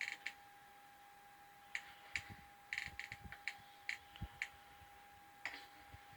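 A dozen or so sharp clicks and ticks at irregular intervals, bunched most thickly in the middle, over a faint steady hum.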